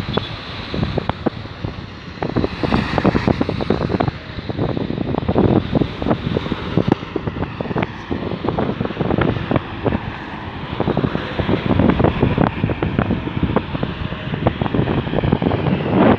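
Wind buffeting the microphone in irregular gusts over the running noise of a moving car.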